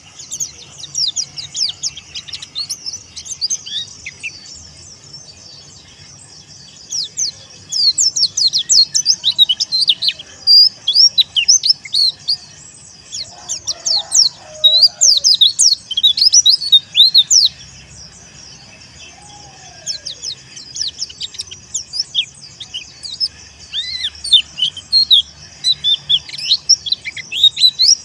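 Pleci (white-eye, Zosterops) singing a fast stream of high, sharply sliding chirps in long bursts, with two pauses of a few seconds.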